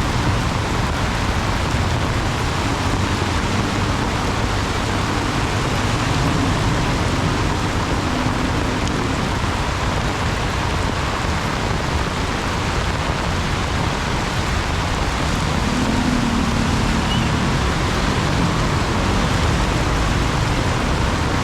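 Heavy downpour: a loud, steady hiss of rain pouring down without a break.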